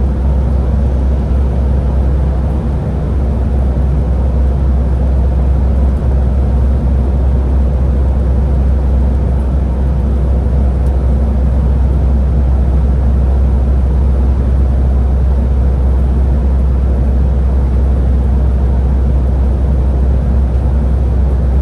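Scania Higer A30 city bus running with a steady, deep low rumble and a faint steady whine, with no change in engine speed.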